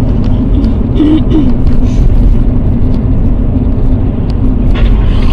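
Steady, loud, low rumble of a car on the move: engine and road noise picked up by a dashcam, with a constant hum through it.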